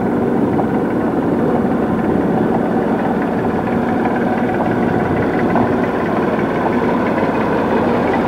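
Aircraft engine running steadily at a constant pitch, close and loud.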